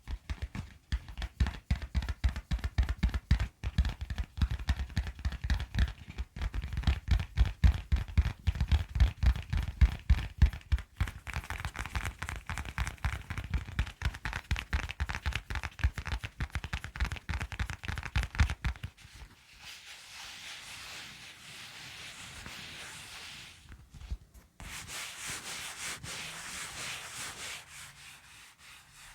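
Close-miked ASMR triggers: rapid, irregular tapping and scratching with heavy low thumps for most of the first two-thirds, then steady rubbing or brushing for the last ten seconds or so.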